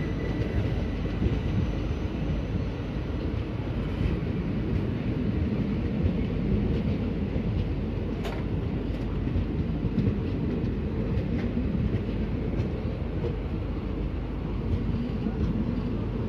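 Passenger coaches of a train rolling past on the rails: a steady low rumble of wheels and running gear, with a few faint clicks.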